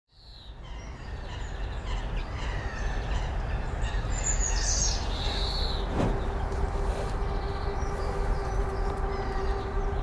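Small birds chirping in short high calls over a steady low urban rumble, fading in at the start. A steady hum joins about halfway through.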